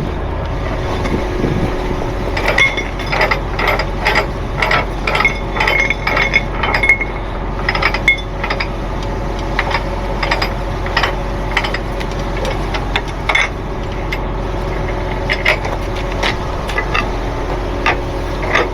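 Irregular metallic clinks and clanks of tow rigging being handled, thickest between about 2 and 9 seconds in, over a truck engine idling steadily.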